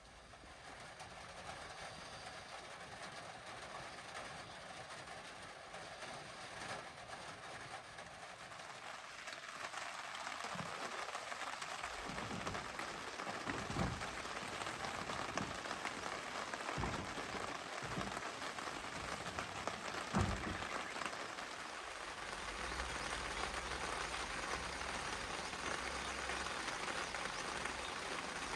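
Rain falling, a steady hiss that builds over the first ten seconds and then holds, with a few short dull knocks scattered through the middle.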